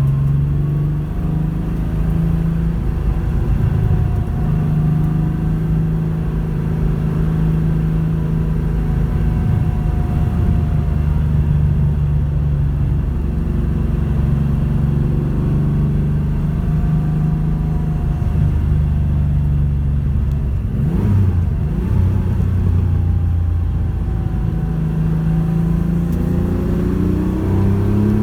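Porsche 911 rally car's engine running at fairly steady revs under way. About three-quarters of the way through its pitch drops and then climbs again as the car accelerates.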